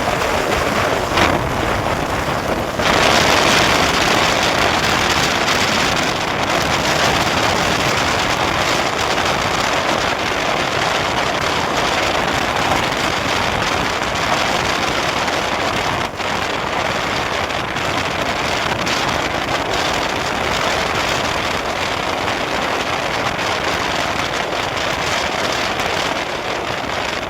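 Motorcycle on the move, with a steady rush of wind over the microphone mixed with the engine and road noise; it gets louder about three seconds in.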